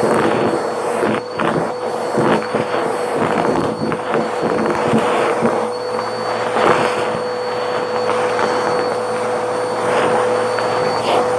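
Vacuum cleaner running steadily, its motor whine holding one pitch, with irregular crackles and rattles as it picks up debris.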